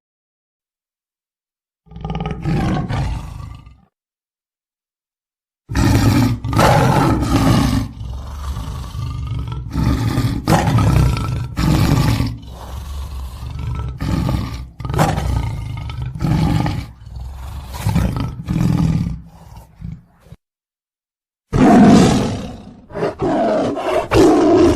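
A big cat roaring and growling: a short burst, then a long run of repeated roars and growls, then another burst near the end, each run stopping abruptly into dead silence.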